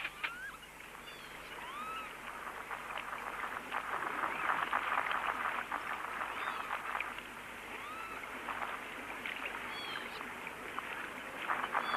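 A flock of waterbirds calling: a busy chatter, with short whistled calls that rise and fall in pitch, heard every second or two.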